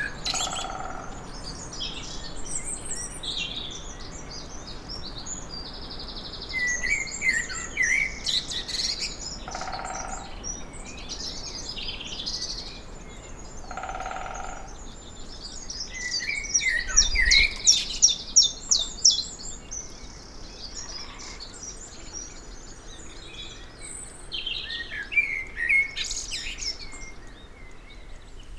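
Woodland songbird chorus: several birds singing and chirping at once in overlapping phrases, busiest around the middle. A few faint, short lower calls come in three times.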